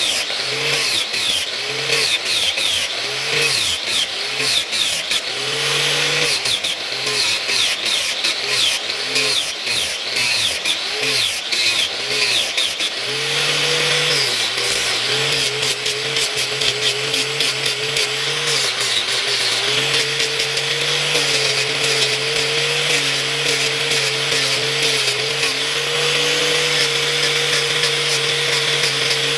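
Electric grinder's motor grinding metal, its pitch dipping and recovering again and again as it is pressed onto the blade, with a scraping hiss. About halfway through it settles into a steady hum.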